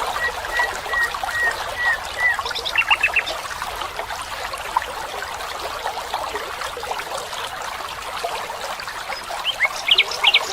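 Water running steadily, a trickling stream, with chirping calls over it: a run of short, evenly spaced notes in the first two seconds, then brief clusters of higher chirps about three seconds in and again near the end.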